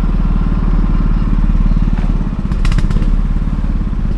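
A small engine running steadily, with a fast, even low throb. A few sharp clicks about two and a half seconds in.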